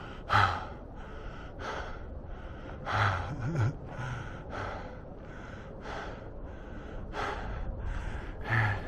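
A man breathing hard, in and out, after climbing a steep trail.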